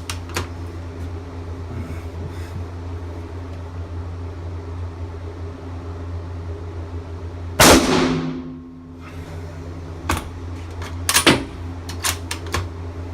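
A single shot from an M1917 Enfield .30-06 bolt-action rifle about halfway through, ringing in a small indoor room and dying away over about a second. Several sharp clicks and knocks follow: the bolt being worked. A steady low hum runs underneath.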